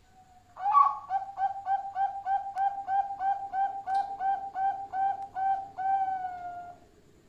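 Zebra dove (perkutut) calling: a fast, even series of short cooing notes, about three a second, ending in one longer drawn-out note.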